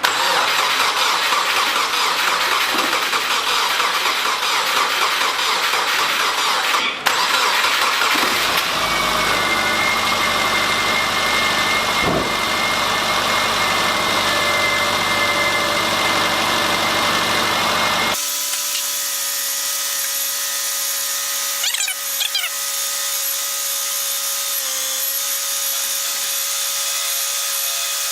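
Subaru 2.5-litre flat-four engine being started for the first time after a cylinder head replacement, then running with a steady mechanical din. About two-thirds of the way through, the sound changes abruptly to a thinner, quieter steady running tone.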